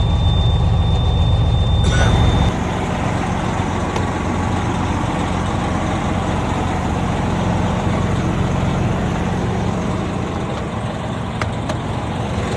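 Semi truck's rebuilt diesel engine running just after a hard start. A steady high-pitched beep stops about two and a half seconds in, and the heavy low rumble drops to a lighter steady idle at the same moment.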